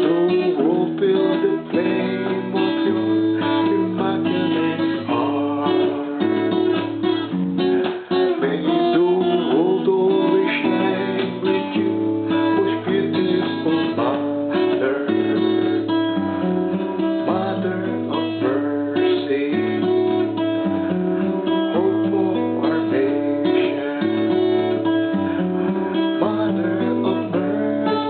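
Instrumental music led by strummed and plucked acoustic guitar, with a steady repeating bass line.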